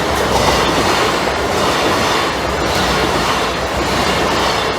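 Train passing close by over a level crossing: a loud, steady rush of wheels on the rails, with some clickety-clack of the wheels over rail joints.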